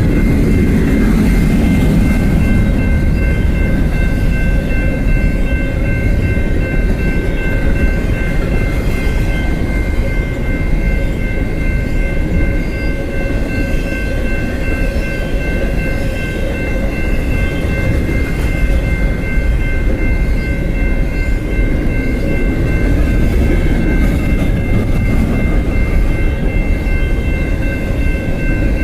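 Freight train rolling past: a steady heavy rumble of wheels on rail, with a steady high whine of several tones held throughout.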